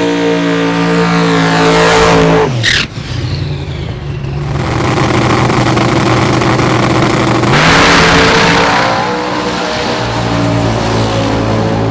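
A drag-racing car's engine under full throttle passing at speed, its pitch dropping sharply as it goes by about two and a half seconds in. More engine noise and a rush swell again near the end.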